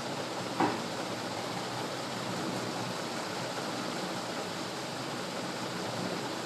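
Steady hiss of background noise, with a single short knock about half a second in.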